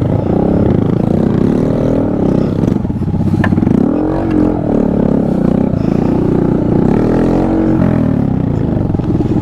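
Small engine of a mini motorcycle or ATV being ridden, its pitch rising and falling again and again as the throttle opens and closes, with a brief click about three and a half seconds in.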